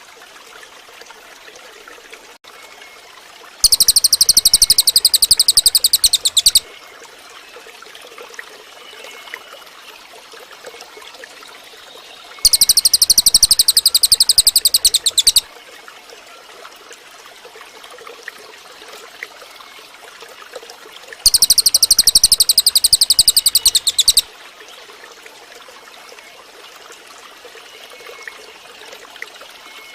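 Cililin bird song: three loud, high-pitched bursts of rapid repeated notes, each about three seconds long and roughly nine seconds apart. Between the bursts there is a steady faint hiss with a few soft chirps.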